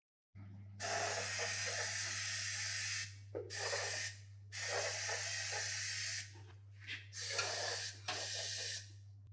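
Hissing spray from a nozzle in five bursts of about one to two seconds each, over a steady low hum.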